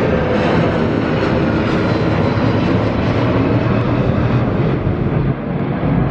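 A Boeing 757's jet engines at takeoff power: a loud, steady jet noise with tones that slide down in pitch as the aircraft passes.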